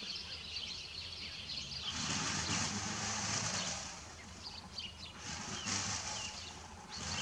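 Outdoor background noise, swelling for a couple of seconds and easing off, with a few faint bird chirps about halfway through.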